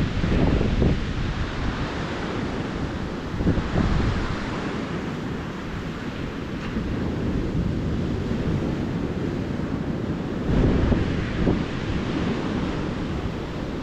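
Calm ocean surf washing onto the beach, a steady hiss, with wind buffeting the microphone in low rumbling gusts, strongest at about a second in, near four seconds and again from about ten seconds.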